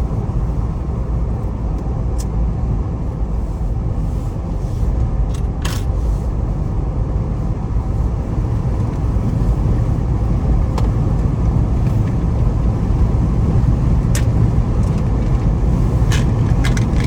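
Road and engine noise inside a Jeep's cabin while driving: a steady low rumble that grows a little louder about halfway through, with a few light clicks.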